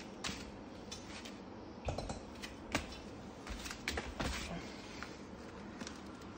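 Scattered light knocks and clicks from handling parts and tools during a refrigerator compressor swap. The clearest come about two and three seconds in, with a small cluster around four seconds, over a steady low hiss.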